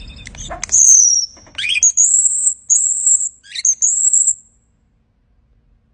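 A small cage finch singing: high whistled phrases, with a slurred falling note about a second in, then several short high held notes.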